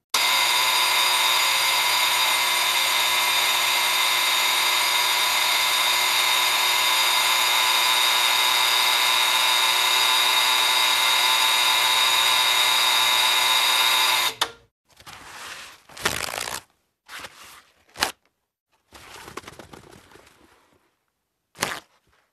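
Stove-top timer alarm buzzing steadily, cutting off suddenly about fourteen seconds in. Then a paper towel roll unwinding from its holder in several separate pulls, slow and then faster, ending with a yank and tear.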